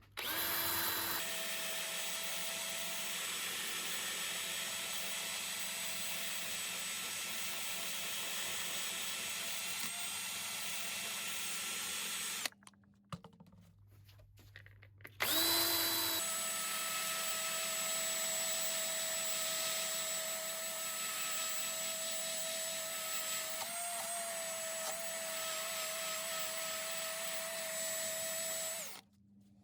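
Electric power tool motor running steadily with a constant whine, switched off after about twelve seconds, then started again a few seconds later and run until just before the end.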